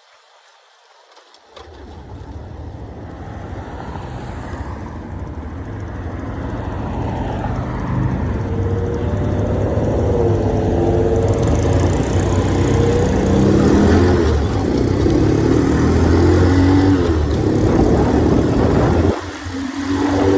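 Motorcycle engine and rushing wind while riding, quiet for the first second and a half, then building steadily louder as the bike gathers speed, with engine pitch rising and falling. The sound drops off briefly near the end, then picks back up.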